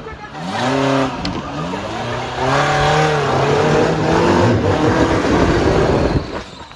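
Off-road 4x4 engine revving hard in repeated bursts, its pitch climbing and falling several times, then held under load before it drops away near the end.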